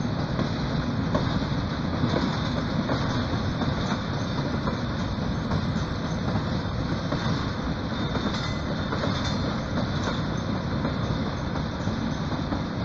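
Koleje Mazowieckie electric multiple-unit passenger train passing close by: a steady rumble of steel wheels running on the rails, with faint clicks of the wheels over rail joints.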